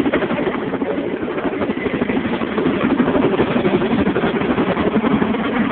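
RAF Boeing Chinook tandem-rotor helicopter flying, its rotors and engines making a loud, steady, rapidly pulsing throb.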